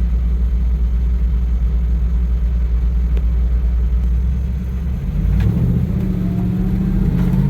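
Ford Coyote 5.0 V8 engine in a 1968 Bronco running with a deep, steady low rumble, then about five seconds in its note rises as it pulls away and picks up speed.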